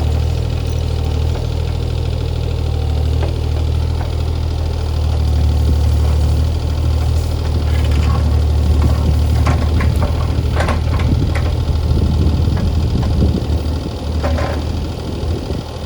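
CAT 303C CR mini excavator's diesel engine running steadily under work, with scattered sharp cracks and clatter through the second half.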